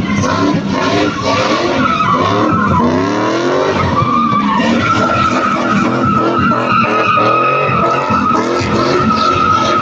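A car drifting: its engine revving up and down repeatedly, then a long steady tyre squeal from about halfway in.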